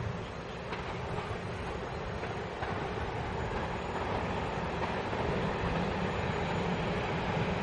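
Electric locomotive hauling a passenger train approaching, with a steady rumble of wheels on the rails that grows gradually louder.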